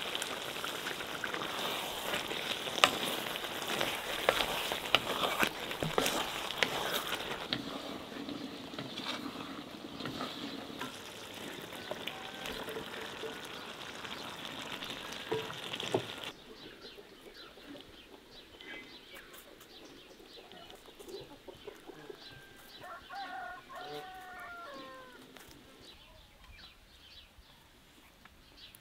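Beef stew sizzling and popping in a cast-iron pot; the sizzle cuts off suddenly a little past the middle. After it comes quieter outdoor ambience with a few chicken clucks and calls near the end.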